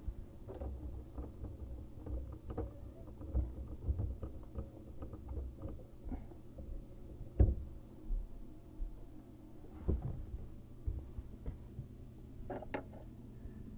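Irregular knocks, clicks and rustling of hands and tools working on a copper water supply pipe under a bathroom vanity, with one louder knock about halfway through.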